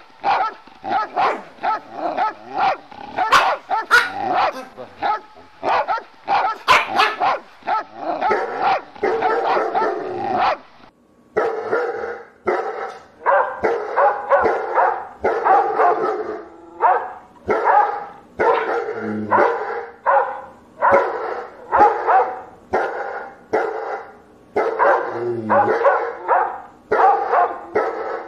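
Dog barking over and over in quick barks, about three or four a second; after a short break about ten seconds in, the barking resumes more slowly, about two barks a second.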